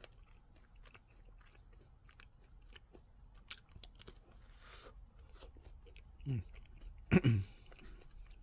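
Close-up chewing of a bite of a Nestlé Drumstick: chocolate-dipped ice cream in a waffle cone with peanuts, heard as many small crackles. Two short, louder sounds with a falling pitch come about six and seven seconds in.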